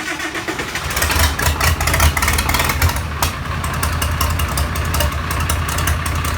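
Freshly rebuilt Farmall 706 diesel engine on its first start: it is turning over and catching, and from about a second in it runs louder and steadier, a fast knocking diesel beat with a strong low hum.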